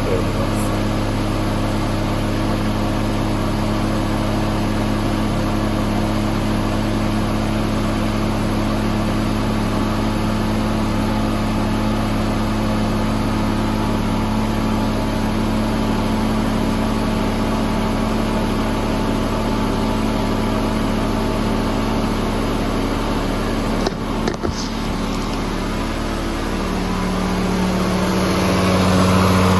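Mazda RX-7 FC's turbocharged 13B rotary engine running at a steady idle, its pitch rising slightly near the end.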